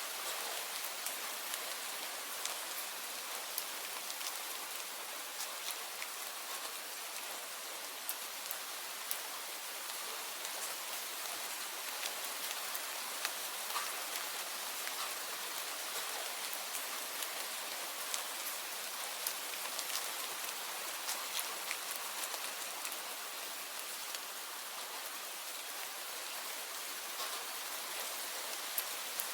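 Steady rain: an even hiss with many individual drops ticking sharply on a surface.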